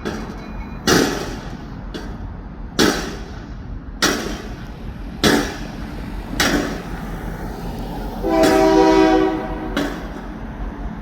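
Slow-moving freight train clanking over the track, with sharp metallic bangs at uneven intervals of about a second. A short diesel locomotive horn blast sounds for about a second, a little past eight seconds in.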